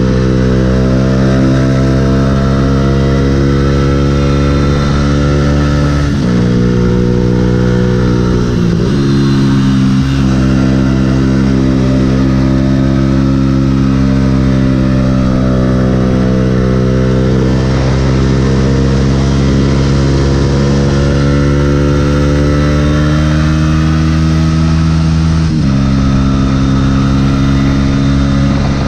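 Yamaha YZF-R125's single-cylinder four-stroke engine running under way at road speed. The pitch steps down suddenly about six seconds in and again near the end, climbing slowly in between.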